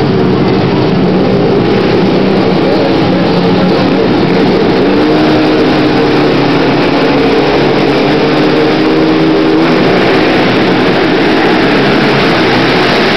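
Several racing ATV (quad) engines running and revving at high speed together, their pitches rising and falling as they accelerate and back off.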